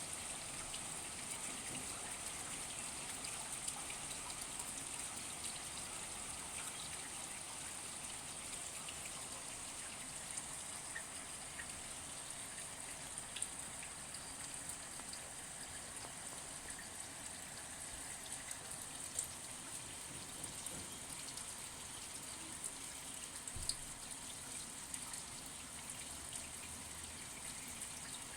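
Steady rain falling: a constant hiss of drops with fine pattering and a few sharper drip ticks scattered through.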